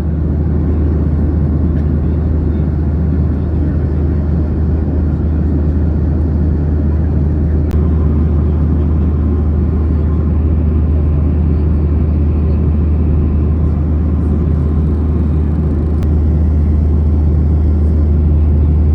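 Steady cabin noise inside a jet airliner: the even low rumble of the engines and the air rushing past the fuselage, with a faint tick twice.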